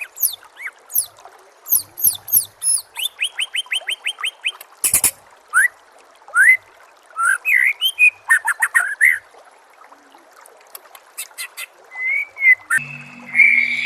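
White-rumped shama (murai batu) singing a varied, rich song: quick sharp down-slurred notes, a fast run of repeated notes, rising whistles and warbled phrases, with a short quieter pause before another whistled phrase near the end.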